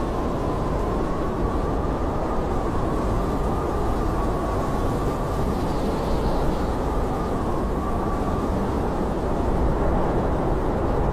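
Blizzard wind blowing steadily: a low, even rush with a thin wavering whistle over it that fades out about eight seconds in.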